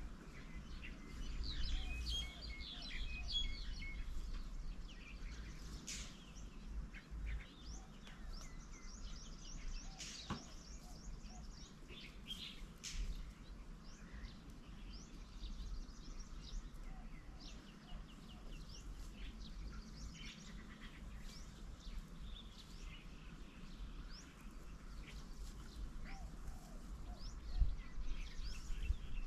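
Several small birds chirping and calling, many short high notes scattered throughout and busiest in the first few seconds.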